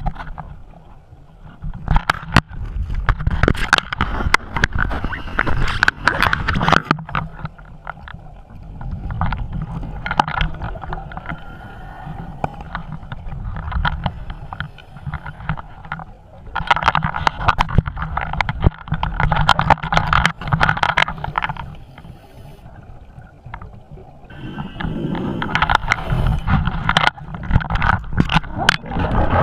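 Scuba diver breathing underwater through a regulator: four long rushes of exhaled bubbles with quieter gaps between them, over a low rumble and scattered clicks.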